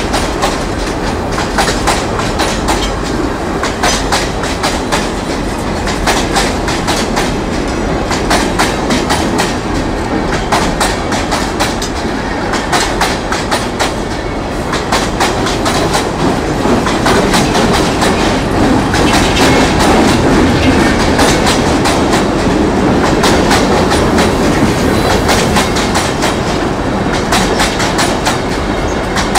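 Freight train hopper wagons rolling past close by, with many regular wheel clicks over rail joints on top of a steady rumble of wheels on rail. The rumble grows a little louder in the second half.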